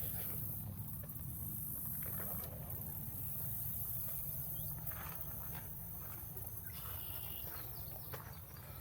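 Footsteps on a nature trail, a soft step every second or so, over a steady low rumble. A faint high thin tone runs through the middle, and a short call comes near the end.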